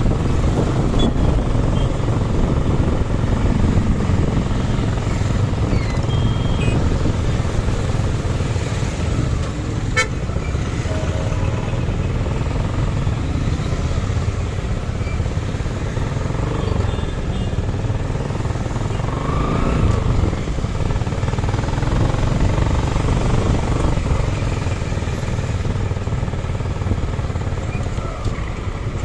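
Traffic in a jam heard from a motorcycle: a steady rumble of engines and road noise, with a few short horn toots from other vehicles.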